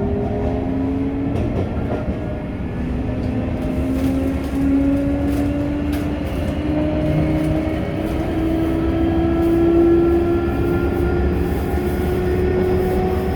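Sagami Railway electric train running from inside the car: the traction motors whine in several tones that rise slowly in pitch as the train gathers speed, over a steady rumble of wheels on the rails.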